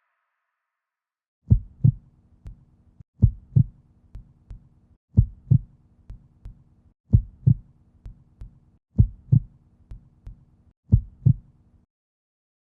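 Heartbeat sound effect: a low double thump, lub-dub, each followed by a fainter echo of the pair, repeating six times about every two seconds, then stopping.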